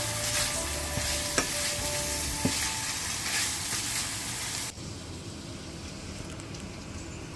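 Ground meat sizzling in a stainless steel frying pan as it is stirred with a spatula, with a couple of sharp clicks of the spatula against the pan. The sizzle cuts off suddenly about two thirds of the way through, leaving a much quieter background.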